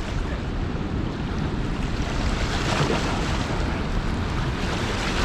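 Steady rush of heavy river current pouring through the spillway below a lock and dam.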